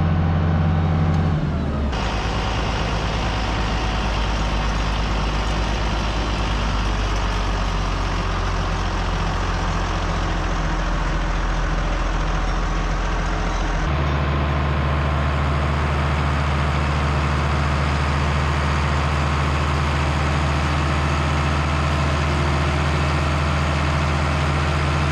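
Heavy tractor engine running steadily under load. The engine note changes abruptly twice, about two seconds in and about halfway through.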